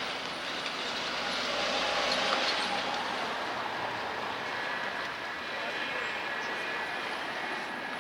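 A passing vehicle, its steady noise swelling about two seconds in and then easing back to an even level.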